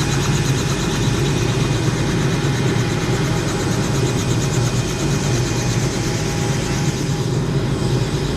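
Helicopter running: steady, loud engine and rotor noise.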